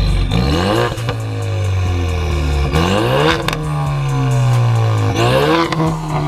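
Straight-piped 2018 Ford Mustang EcoBoost's turbocharged 2.3-litre four-cylinder, with a catless downpipe and muffler delete, accelerating hard. The revs climb, drop at a gear change about three seconds in, and climb again near the end.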